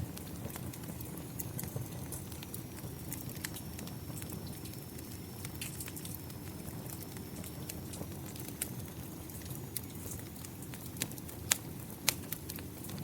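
Wood fire crackling with sharp pops scattered throughout, a couple of them louder near the end, over a steady low rush of rain. A faint thin high tone sounds through the middle.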